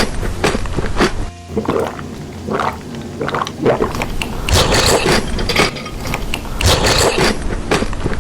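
Chocolate being bitten and chewed: a dense run of sharp crunches and crackles.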